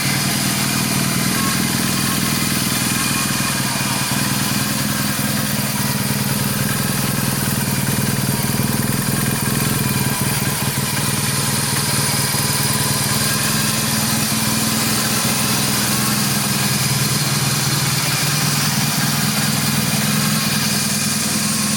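BMW R1200GS boxer-twin engine idling steadily, with no revving.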